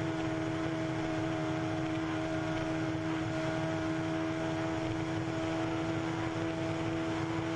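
Onboard motorcycle engine running at a steady, constant speed with a steady hum, under rushing wind noise.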